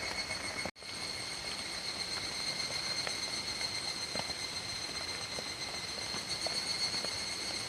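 Steady rain falling, with scattered drop ticks, under a continuous high-pitched drone of cicadas. The sound cuts out completely for a split second about a second in.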